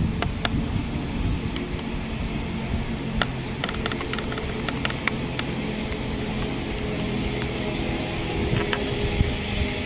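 A railway train running with a low rumble and a steady hum that sets in about three and a half seconds in, with sharp clicks scattered through.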